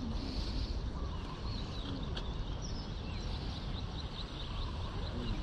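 Small birds chirping repeatedly over a steady low rumble, with one sharp click a little over two seconds in.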